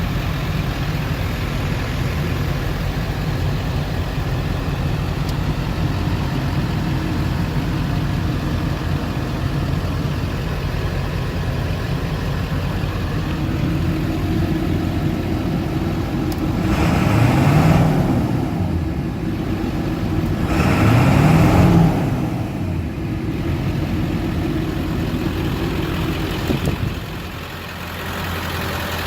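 Ford 7.3 Powerstroke V8 turbo diesel idling steadily, revved twice past two-thirds of the way through, each rev rising and falling back to idle.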